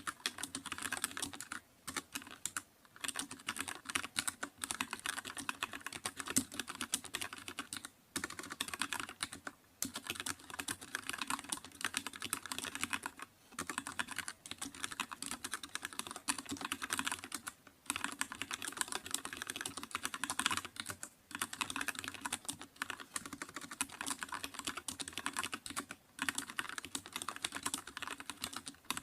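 Computer keyboard being typed on continuously: rapid, dense key clicks, broken by short pauses every few seconds.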